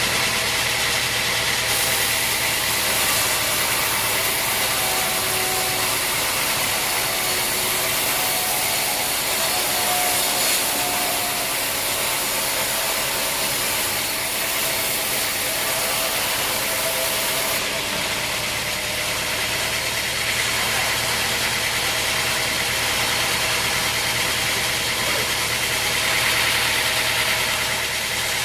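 Engine-driven sawmill running steadily: a constant mechanical drone with a broad hiss. The high hiss is stronger from about two seconds in until about seventeen seconds in.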